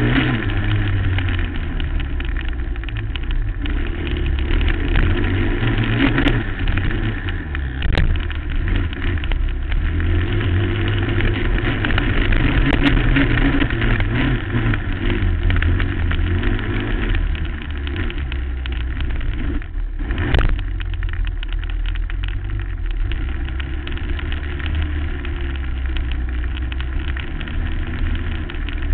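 2008 Suzuki LT-R450 quad's single-cylinder four-stroke engine running hard under riding, its revs rising and falling, with a few sharp knocks along the way.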